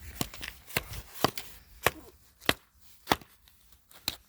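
A wooden axe striking a rock over and over, about seven sharp knocks roughly half a second apart.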